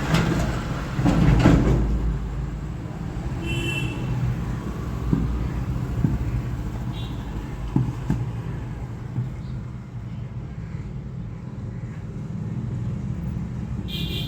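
The Mahindra Jeeto's diesel engine running steadily at idle, with a louder rumble about a second in and a few light clicks. Short high electronic beeps sound twice, a few seconds in and again at the end.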